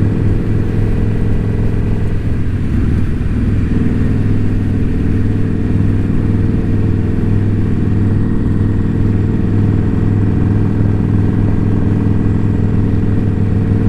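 Indian Scout Bobber V-twin motorcycle engine and exhaust running steadily at cruising speed, a loud, even low drone.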